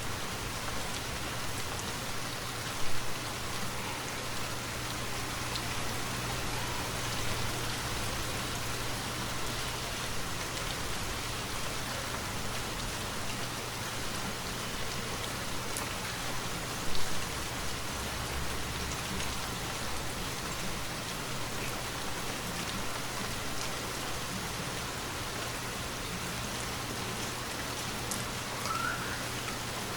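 Steady rainfall, an even hiss, with two brief louder taps about three seconds in and again a little past the middle.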